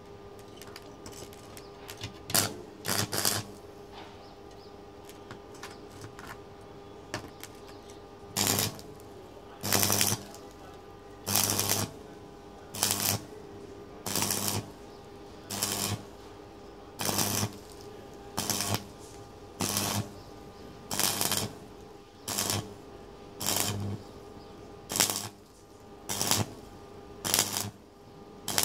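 Hand file rasping over a freshly welded metal exhaust pipe in short strokes. Two strokes come first, then after a pause a steady run of about one stroke every second and a half.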